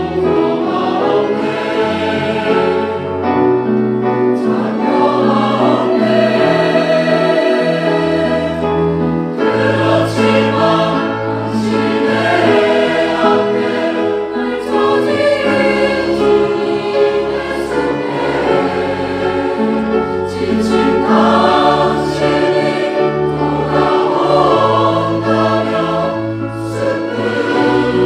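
Church choir singing a sacred anthem in held chords, with sustained low bass notes beneath.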